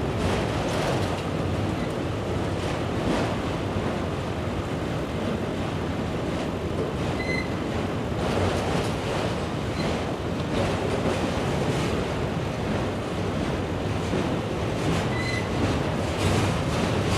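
Freight train rolling past: a steady rumble and rattle of wheels and cars on the rail, mixed with wind noise on the microphone.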